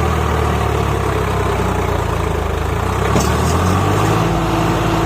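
Swaraj 744 FE tractor's diesel engine running steadily under load, its note shifting about four seconds in, with a brief rattle of ticks just after three seconds.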